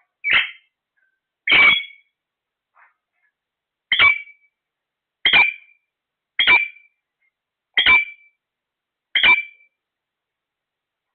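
A parrot giving seven short, sharp calls, each about half a second long, repeated at a steady pace of roughly one every second and a half, with a longer pause after the second call.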